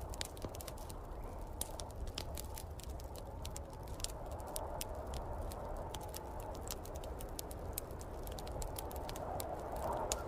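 Wood fire crackling in a fireplace, with irregular sharp pops and snaps, over the steady wind noise and low rumble of a snowstorm outside; the wind swells briefly near the end.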